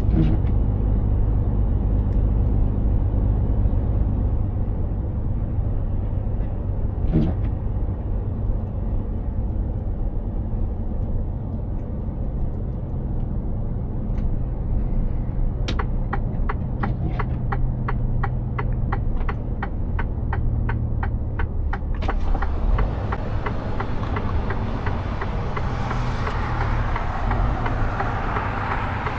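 Mercedes-Benz Actros 2763 truck's diesel engine running steadily, heard from inside the cab as a low rumble. Partway through comes a run of quick, evenly spaced ticks lasting about six seconds. Near the end a rising hiss joins in.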